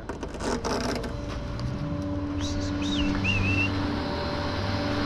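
Tow truck engine idling with a steady hum. There are a few sharp metallic clicks in the first second, and a short high warbling whistle about halfway through.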